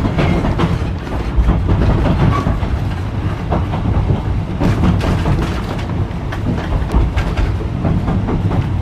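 Ex-Melbourne W2 class tram running along the track: a steady low rumble with irregular clicks and knocks from the wheels on the rails.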